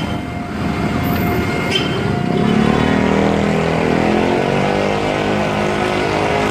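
Large truck engine running and rising steadily in pitch as it accelerates; the source is most likely a fire truck pulling away.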